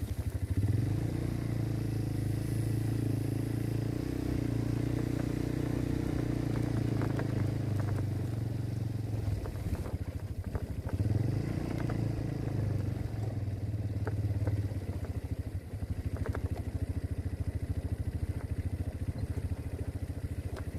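MB Glock 200cc quad's engine rising quickly from idle and holding a steady higher speed for several seconds, dropping back to idle, then doing the same again more briefly before settling back to idle. Light clicks and rattles scattered through it.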